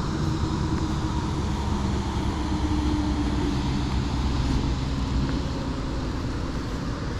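A boat's motor running steadily, a low, even hum with some wind and water noise over it.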